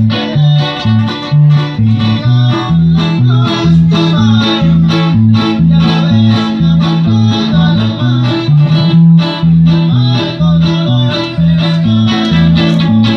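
Band music: plucked guitars over a moving bass line and a steady beat.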